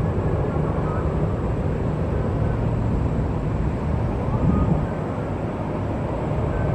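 Steady low rumble and hiss of outdoor noise at an airport, with no clear rise or fall.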